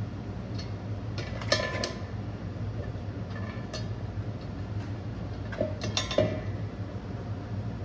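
Metal clanks and clinks as a steel driveshaft with a loop ring around it is handled and fitted back into the yoke: a ringing knock about a second and a half in and a few more near six seconds, over a steady low hum.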